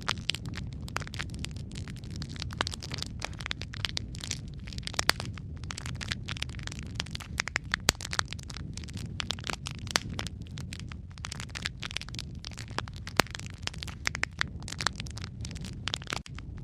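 Wood fire burning in a fireplace: a steady low rumble of the flames with dense, irregular crackling and a few sharper pops of burning wood.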